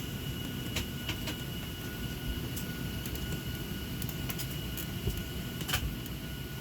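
Steady hum of a parked Boeing 737-700's cabin air and ventilation system, a low rumble with a thin high whine, broken by a few scattered clicks and knocks, the loudest about three-quarters of the way through.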